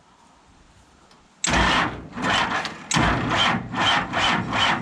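Cummins 5.9 diesel engine cranked by its starter, starting about a second and a half in and turning over slowly in an even rhythm of about two compression pulses a second without catching. The owner puts the failure to start down to dirty electrical connections.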